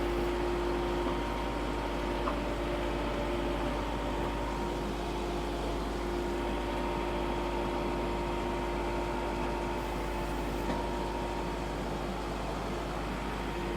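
Vehicle engine running at a steady speed while creeping in its lowest, granny gear in four-wheel drive, with an even, unchanging hum.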